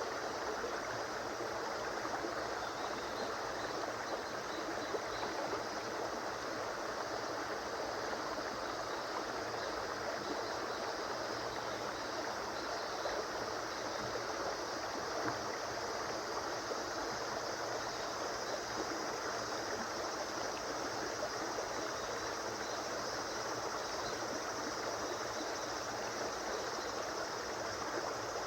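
River water flowing steadily over stones, an even rushing and babbling.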